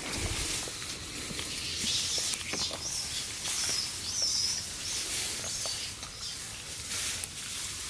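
Outdoor ambience with birds chirping over a steady high hiss, and scattered light rustles and taps.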